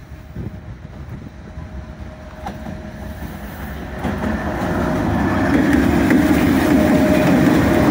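A 3ES5K 'Ermak' three-section electric locomotive hauling a freight train approaches and grows steadily louder. About four seconds in, the locomotive reaches the camera and its running noise and the wheels on the rails become loud and steady as its sections pass close by.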